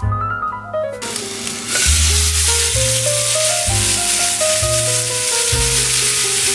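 Beef hamburger patties sizzling in a frying pan, the hiss starting about a second in and continuing steadily, under background piano music.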